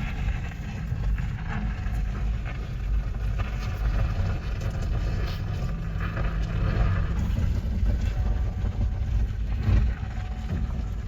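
Skid steer engine running steadily, with a sharp knock near the end.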